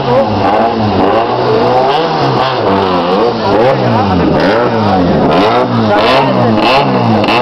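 Lancia Delta's engine revved hard over and over, its pitch climbing and dropping in quick repeated blips of the throttle.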